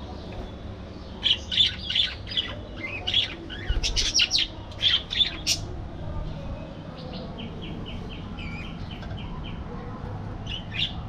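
Budgerigars chirping and squawking: a busy cluster of sharp calls for about four seconds, then a softer run of short, evenly spaced chirps, about three a second, and a couple more calls near the end, over a steady low background noise.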